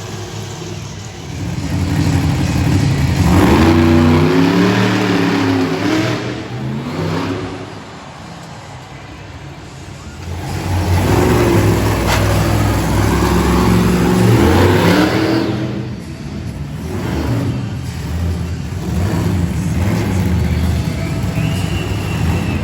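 Monster truck engine revving hard in two long surges, the pitch climbing through each one. The first comes about two seconds in and the second about ten seconds in, and the engine falls back to a lower, quieter run between them.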